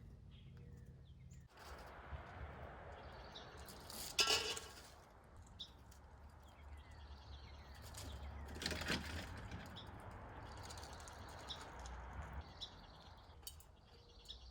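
Quiet outdoor background noise, broken by two short, sharp sounds, one about four seconds in and one about nine seconds in.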